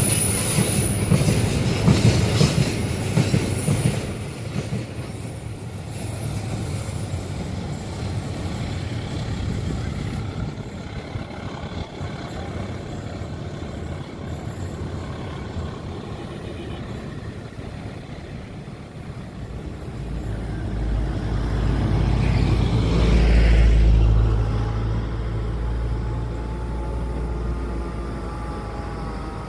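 Train passing over a curved level crossing, with wheels squealing high on the bend. The rumble fades after the first few seconds. Later a low rumble swells and dies away.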